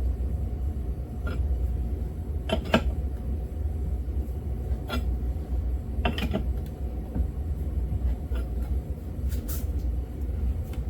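Wrench turning the bolt of a crank installer tool as a Yamaha YZ80 crankshaft is drawn into its crankcase bearing, with a few separate sharp metallic clicks about every three to four seconds. A steady low rumble and a faint hum run underneath.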